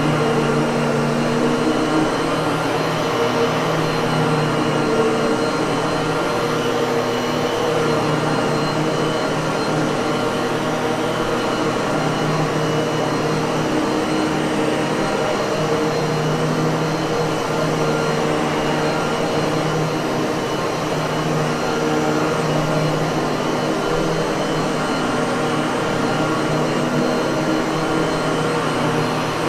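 Miele vacuum cleaner motor running steadily: a continuous whooshing rush of air with a steady hum.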